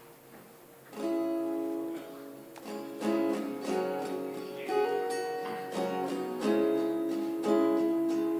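Acoustic guitar strumming chords, starting about a second in: the instrumental intro of a song.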